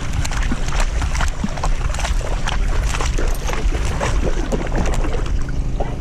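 Water splashing and sloshing as a pit bull wades through a shallow river, with many irregular splashes over a steady low rumble on the microphone.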